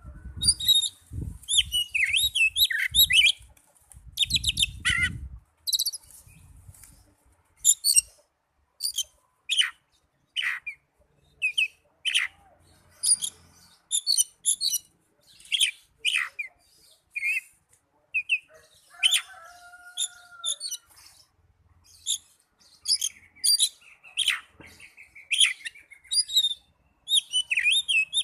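Oriental magpie-robin song: a varied run of short, sharp chirps and whistled phrases with brief pauses between them, and a low rumble under the first few seconds.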